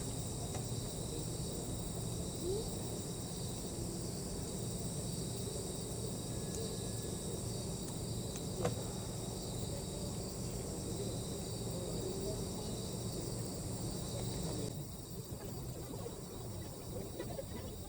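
Chorus of night insects, crickets, trilling steadily in high, even tones, with a few isolated sharp clicks. A lower rushing noise underneath stops abruptly near the end.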